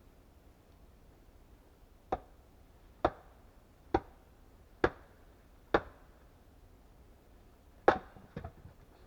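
Axe chopping wood: five sharp, evenly spaced strokes just under a second apart, then a harder stroke near the end followed by two quick lighter knocks.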